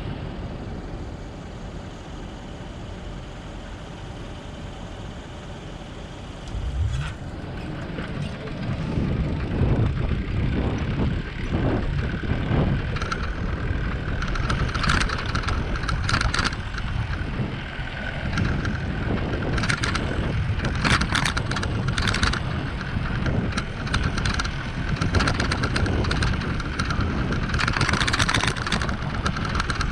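Wind rushing over a GoPro microphone on a moving bicycle, with rattling clicks from the bike; the rushing grows louder about seven seconds in.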